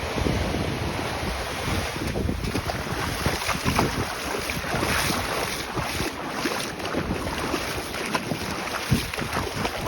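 Wind buffeting the microphone over shallow ocean water washing and splashing, in irregular gusts and sloshes.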